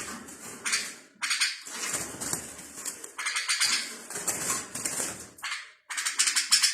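Small songbirds singing in bursts of rapid, high-pitched phrases, broken by short pauses about a second in and near the end.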